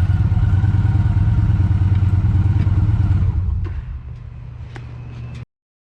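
Victory Cross Country 8-Ball's V-twin engine running at a steady idle. About three seconds in the sound drops sharply to a quieter rumble with a few light clicks, then cuts off suddenly.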